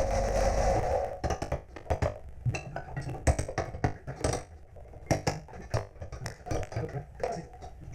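A steady power-tool noise cuts off about a second in, followed by irregular metallic knocks and clanks, a few a second, as metal parts are handled and tapped on a workbench.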